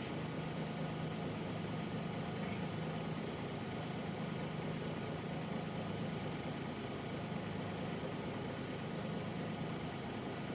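Nissan Diesel Space Runner RM bus's FE6 straight-six diesel engine running with a steady, unchanging note, heard from inside the passenger cabin.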